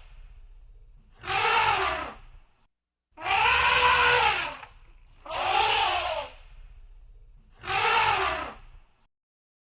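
Elephant trumpeting: four loud, drawn-out calls of about a second each, every two seconds or so, each rising and then falling in pitch.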